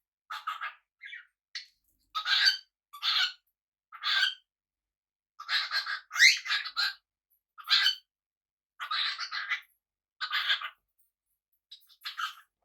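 Pet parrots calling: a string of about a dozen short, rasping calls with brief pauses between them, one with a rising note about six seconds in.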